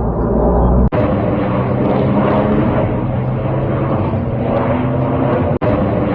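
Jet airliner engine noise: a steady rumble with a low hum, broken by two abrupt dropouts, about a second in and near the end.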